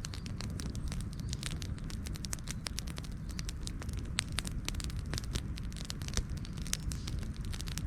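Wood fire burning, with frequent sharp irregular crackles and pops over a steady low rumble of flames.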